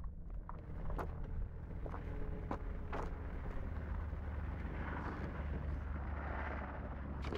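Distant small 4x4's engine running as it is driven around a dirt lot, over a steady low rumble of wind on the microphone, with a few sharp clicks.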